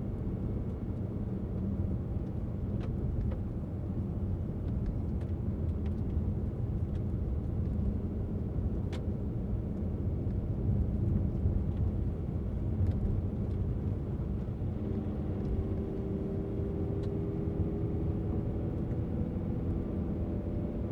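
Car driving on a mountain road: a steady low rumble of engine and tyres, with a few faint clicks. About fifteen seconds in, an engine hum comes up and rises slightly in pitch.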